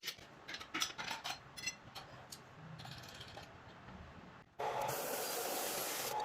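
Irregular metallic clicks and clinks from hand-tool work, most of them in the first two seconds. About four and a half seconds in, a steady hiss cuts in suddenly.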